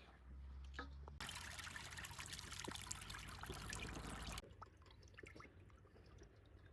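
Water pouring in a steady trickle, starting about a second in and stopping abruptly after about three seconds.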